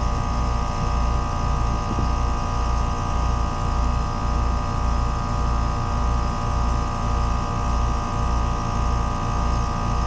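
Trane 4TWX7036 two-stage heat pump outdoor unit running in second stage, forced on with a jumper: a steady low hum pulsing in an even beat, under steady higher-pitched tones. The technician says it is still doing the same thing, struggling as the electronic expansion valve control fails to regulate in second stage.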